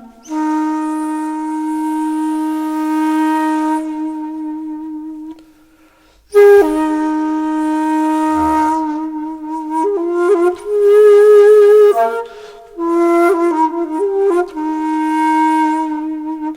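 Background music: a solo flute playing slow, long held notes with audible breath, pausing briefly about six seconds in before going on.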